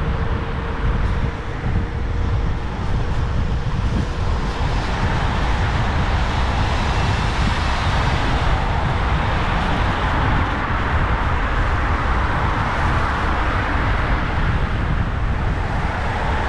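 Wind rumbling over an action camera's microphone during an e-scooter ride through city traffic, with road and traffic noise around. There is a faint steady whine in the first few seconds.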